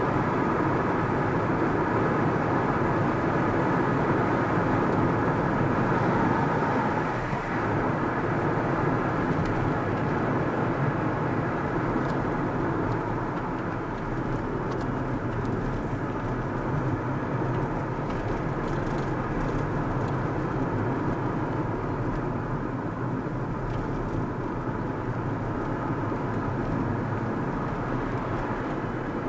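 A car driving at steady speed: continuous engine and tyre road noise.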